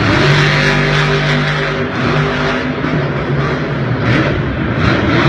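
Monster truck engine running loud, its pitch holding steady for a second or two at a time.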